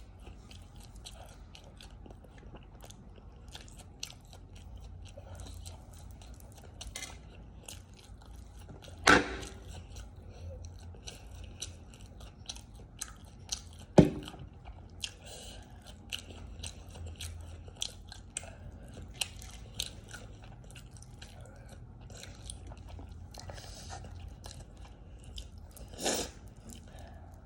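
Close-miked mukbang eating: a person chewing and biting, with many small wet mouth clicks throughout. There are louder bites or crunches about 9, 14 and 26 seconds in.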